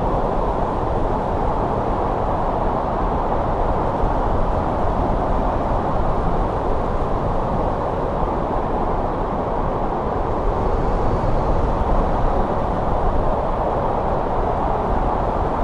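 Snowstorm wind blowing steadily, a dense low rush that swells slightly now and then without breaking.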